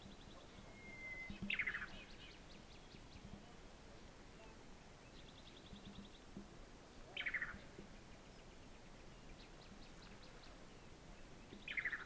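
A bird giving a short buzzy call that slides down in pitch, three times about five seconds apart, over fainter high ticking trills from other birds.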